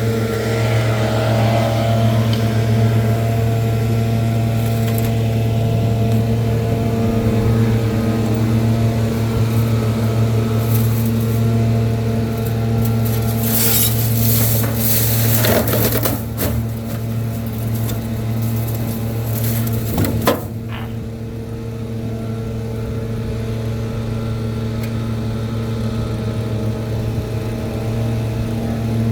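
Gas-powered leaf blower's small engine running at a steady pitch under a rushing blast of air. The blast swells louder for a few seconds in the middle, then its hiss drops away about two-thirds of the way through while the engine keeps running.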